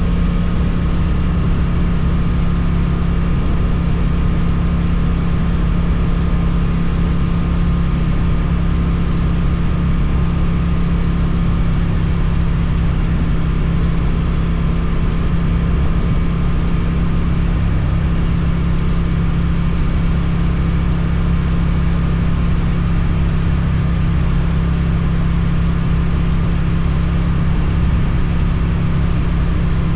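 Suzuki twin-cylinder motorcycle engine running through an Akrapovic exhaust, holding a steady speed with no revving up or down.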